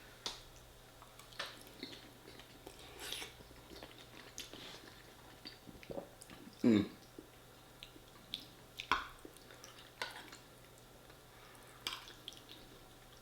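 Mouth sounds of a person eating lasagne: soft chewing and wet lip smacks at irregular intervals. There is one louder, lower sound about two-thirds of the way through.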